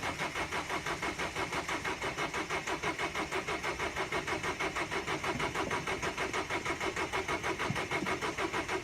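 Starter motor cranking the cold diesel engine of an old Ford Transit van, an even pulsing churn of compression strokes that goes on for several seconds without the engine firing. It is a hard cold start in sub-zero weather after the glow plugs have been cycled.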